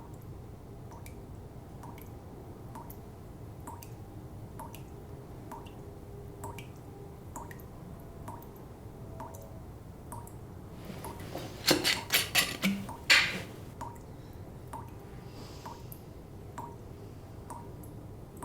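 Water dripping steadily into a quiet small room, about one drip a second. In the middle stretch a few louder clattering knocks break in.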